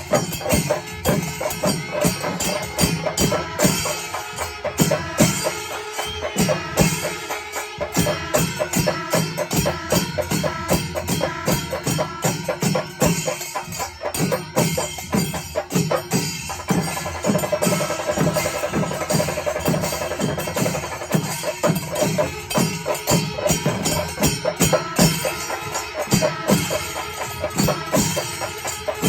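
Panchari melam ensemble of chenda drums playing a dense, driving rhythm, with elathalam hand cymbals clashing along and some held tones running through it.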